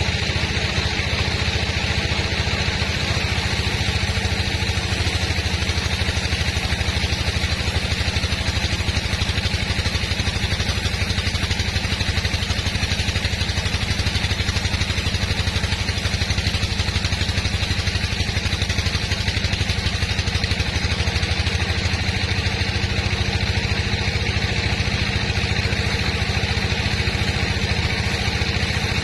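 Sawmill engine running steadily with a fast even pulse, no change in speed.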